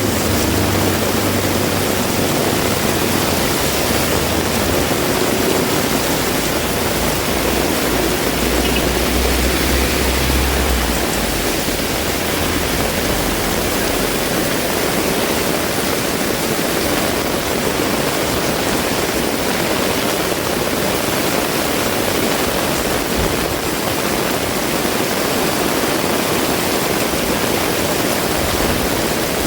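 Heavy rain falling steadily, a dense even hiss. A low engine rumble from a passing vehicle underlies the first third and fades out about eleven seconds in.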